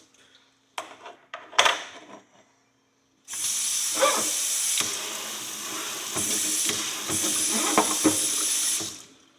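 A few knocks, then a kitchen tap runs for about five and a half seconds, with some clunks in the running water, before it is shut off. The water is likely rinsing loosened dirt off an old horseshoe.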